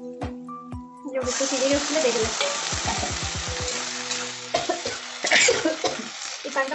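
Boiled black chickpeas and their cooking water going into hot oil and fried chillies in a kadai: a loud sizzle starts suddenly about a second in and dies down after a few seconds, with a metal spatula scraping and clattering against the pan as it stirs.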